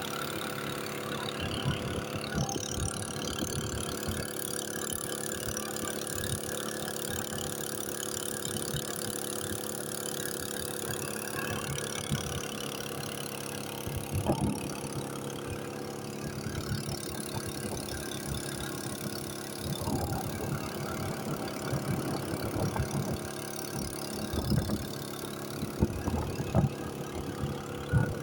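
An engine running steadily at a constant speed, with scattered short knocks and thumps that come more often in the second half.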